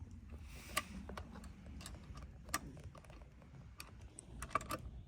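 Scattered sharp metallic clicks and taps of a socket wrench being worked on a chainsaw's bar nut as it is tightened, with a small cluster of clicks near the end.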